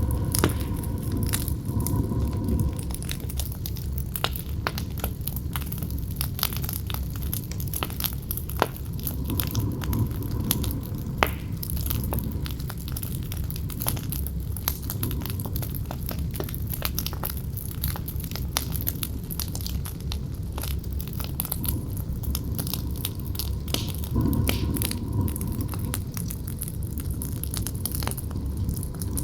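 Campfire crackling and popping over a low, steady wind rumble. The wind swells near the start and again a few seconds before the end, and there are a couple of louder pops about 9 and 11 seconds in.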